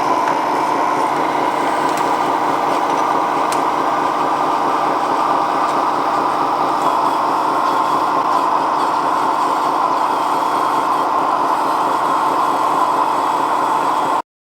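Toy RC vehicle's small electric motor and gears running steadily, then cutting off suddenly near the end.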